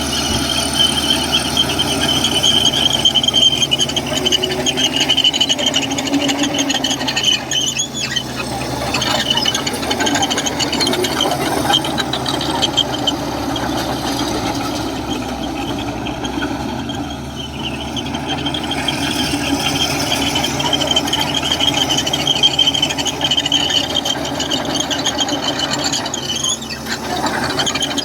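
Komatsu crawler bulldozer running, its diesel engine a steady low drone under a continuous high-pitched squeal from the steel tracks.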